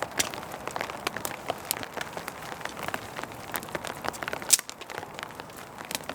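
Rain falling on a tarp shelter: a steady hiss dotted with many irregular drop ticks, and one louder sharp click about four and a half seconds in.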